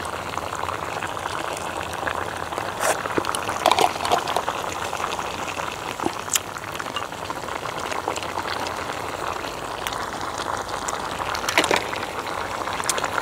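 A pot of duck and fermented bean curd hotpot broth boiling steadily, with a few sharp clicks scattered through it.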